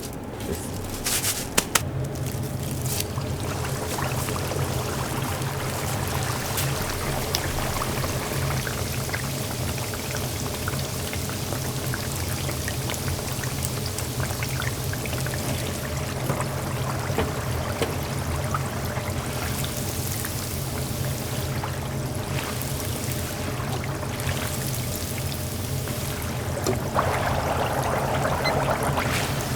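Hot oil in a deep fryer sizzling and crackling steadily as dough or corn dogs fry, over a steady low hum.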